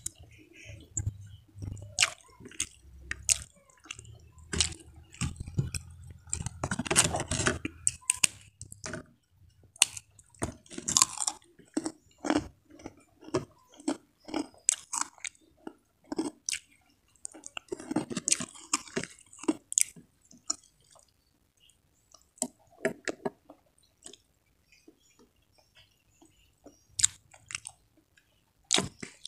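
Close-miked chewing of a mouthful of rice and side dishes eaten by hand, a run of short, irregular wet clicks and smacks, busiest a few seconds in.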